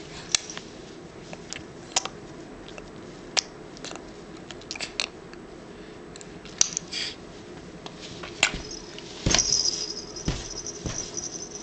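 Wet sucking and clicking noises made with the mouth: scattered single clicks at first, then a quicker run of smacking from about nine seconds in.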